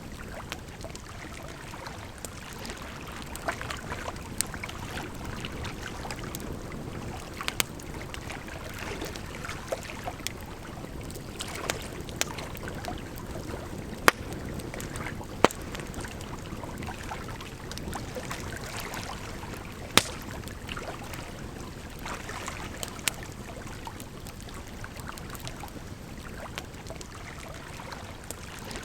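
Campfire crackling, with irregular sharp pops of burning wood, a few of them loud, over a steady rush of running water.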